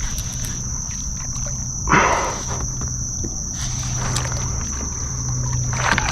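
A short splash about two seconds in, with another near the end, from a hooked redfish thrashing at the water's surface beside a kayak. Underneath are a steady high insect drone from the marsh and a low wind rumble.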